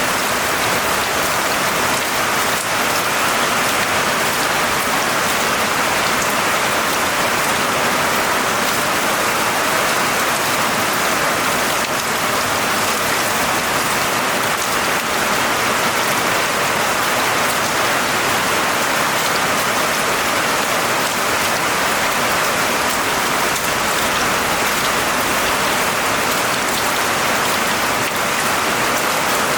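Steady, dense rainfall pattering on a surface, with many fine drop ticks and no thunder.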